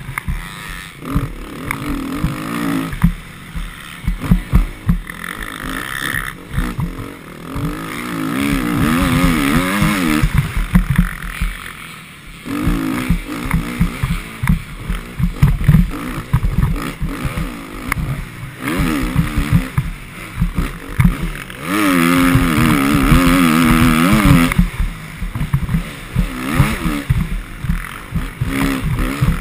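Motocross bike engine revving up and falling back again and again as it is ridden round the track, its pitch wavering with each burst of throttle, over a heavy low rumble with many short knocks.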